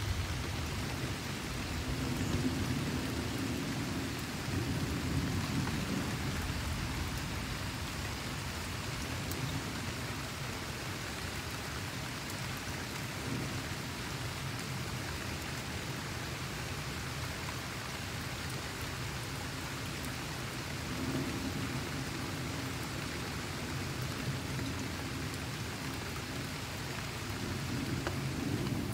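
Heavy rain falling steadily, a dense even hiss. A few low rumbles swell and fade under it, near the start, past the middle and near the end.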